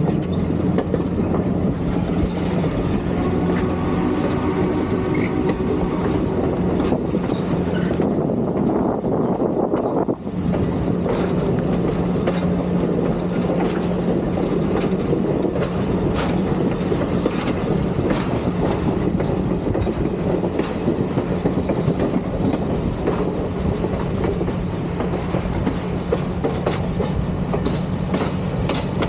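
Excursion train rolling along the rails, the wheels clattering steadily with a thin high squeal in the second half.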